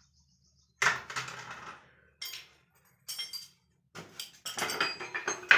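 Hard objects being handled: clattering and clinking in several separate bursts, busiest and loudest near the end.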